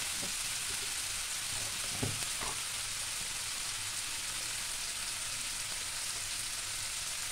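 Chopped tomatoes and onions frying in oil in a kadhai, a steady sizzle, with a couple of soft knocks about two seconds in.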